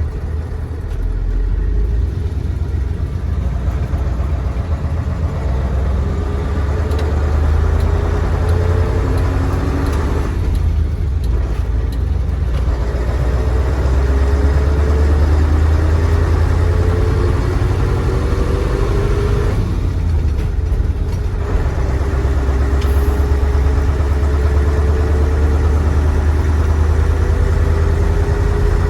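Mercedes-Benz SK 1729 truck's 15-litre OM442 V8 diesel pulling under load, its note rising steadily. It breaks off and drops back twice, about ten and twenty seconds in, as gears are changed, then climbs again.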